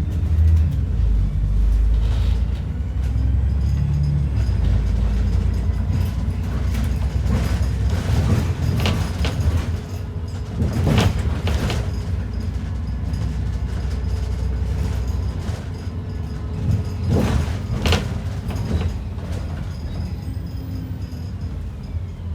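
ADL Enviro 400 double-decker bus under way, heard from inside the cabin: a steady low engine and road rumble, heavier at first, with a few sharp clunks and rattles from the bodywork, about two-thirds of the way through and again near the end.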